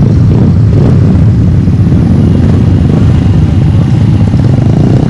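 A motorcycle engine running steadily, a loud, continuous deep rumble.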